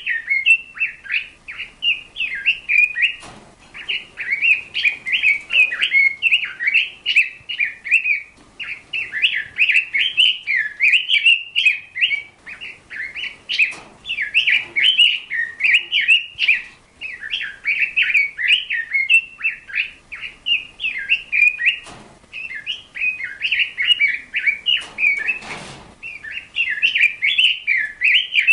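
A bird chirping and twittering almost without a break, in quick high notes, with a few brief knocks in between.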